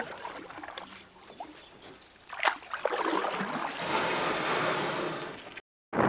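Wave washing in over sand at the water's edge, swelling about three seconds in and fading away. A sharp click comes just before it, and the sound cuts off abruptly near the end.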